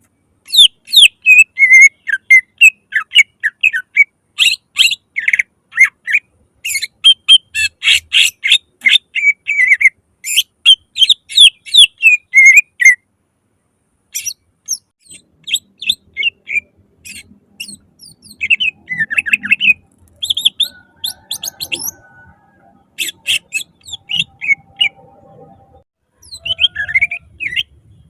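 Cucak ijo (green leafbird) singing loudly in quick runs of chirps and whistled notes. The song is dense for about the first thirteen seconds, then comes in sparser phrases after a short pause.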